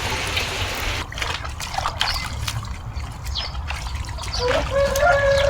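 Rain falling, a steady hiss that drops away suddenly after about a second, leaving scattered drips and trickling water. Near the end a drawn-out animal call begins, sliding slightly down in pitch.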